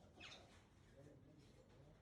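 One faint, short bird call falling in pitch, a quarter second in; otherwise near silence.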